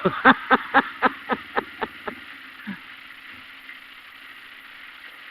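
Kawasaki KLE500's parallel-twin engine running low and steady, fading away after about three seconds. Over its first two seconds there is a quick series of short pulses, about four a second, that fade out.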